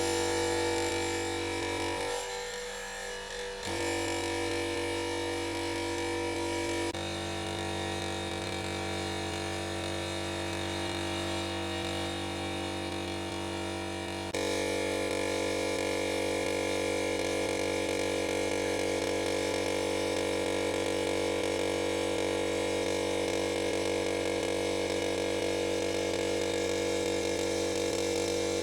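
Electric motor of a restored high-pressure air compressor running with a steady buzzing hum. Its level and tone shift suddenly a few times, about 2, 3.5, 7 and 14 seconds in.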